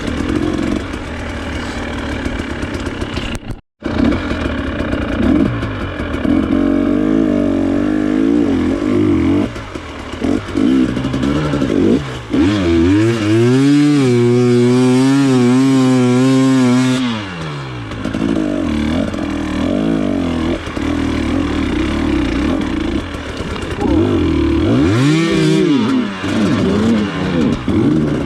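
Off-road trail motorcycle engine running and revving, its pitch climbing and held high for several seconds about halfway through, with another rev near the end. The sound cuts out for an instant near the start.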